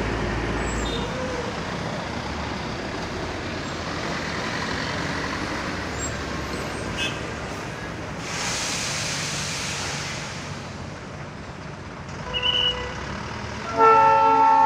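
Diesel locomotive running with a steady rumbling noise, a burst of hissing about eight seconds in, then its horn sounding a loud multi-tone chord near the end.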